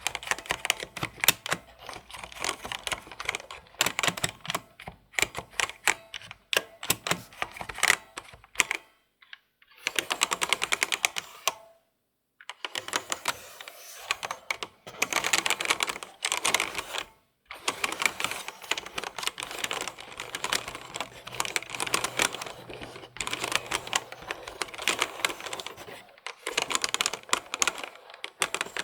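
Typing on a computer keyboard: fast runs of key clicks, stopping in a few short breaks.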